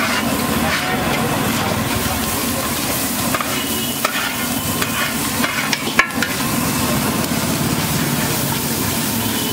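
Scrambled egg sizzling on a large flat griddle as a metal spatula scrapes and spreads it, with sharp scraping clicks of metal on metal, the strongest about six seconds in.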